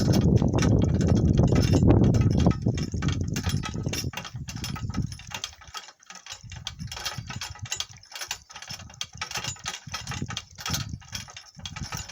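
Donkey cart jolting over rough farm ground, with the camera mounted on the cart. A heavy low rumble for the first two or three seconds gives way to quieter, irregular clicks and knocks of the cart rattling.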